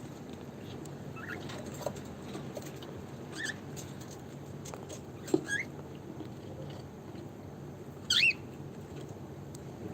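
Cockatiels giving a few short, separate chirps, the loudest about eight seconds in, among light clicks and taps from the cage.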